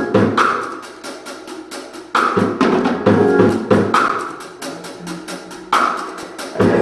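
Live band playing a drum-led groove: drum kit hits in a steady beat, with some held low notes underneath.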